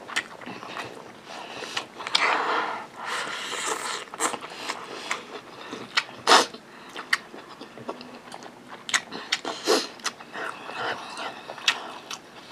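A person chewing a mouthful of fried rice with open, wet lip smacks and mouth clicks coming at an uneven pace.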